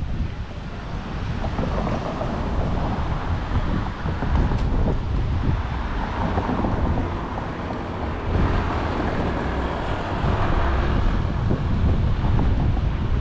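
Wind buffeting the microphone of a camera riding on a moving bicycle: a loud, uneven rumble with a rushing hiss over it.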